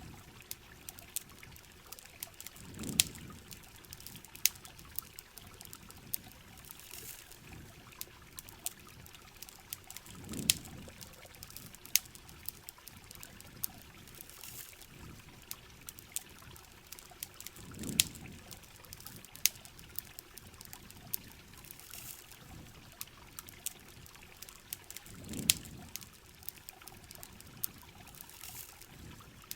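Heavy rain and running water making a steady hiss and trickle, with sharp campfire crackles and pops scattered throughout. A low swelling rush comes back about every seven and a half seconds.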